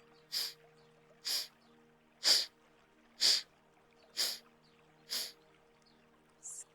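Forceful nasal exhalations of single-nostril Kapalabhati breathing: short, sharp puffs of air blown out through one nostril, about one a second, six in a row.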